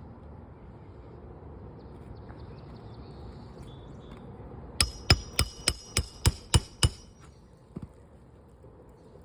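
Hammer striking metal in a quick run of about eight blows, roughly three a second, with a metallic ring, then a single fainter knock. The blows come during roof shingle repair work with a shingle-removal (snake) tool and nails.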